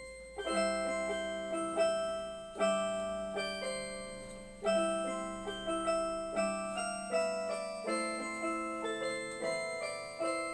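Angelet XTS 690 electronic keyboard playing its tone 299, a synthesizer voice: a melody over chords, each note struck and then fading.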